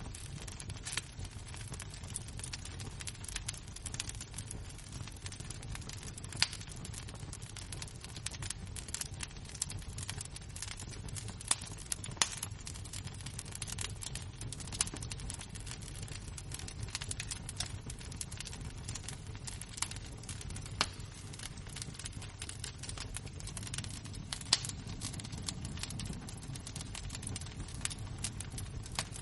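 Fire and glowing embers crackling: an irregular stream of small snaps, with a few louder pops, over a steady low rumble.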